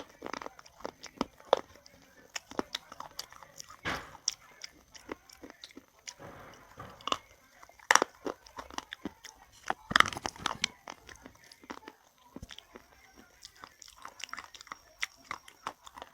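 Close-up crunching and chewing of crisp food: sharp, irregular crunches and crackles, with louder bites about four, eight and ten seconds in.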